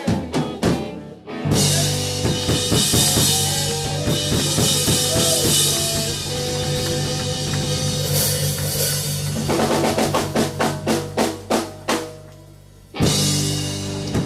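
Live rock band playing drums, bass and guitar loudly at the close of a song. Near the end comes a run of quick drum strokes, a brief drop, then one last loud hit that rings on.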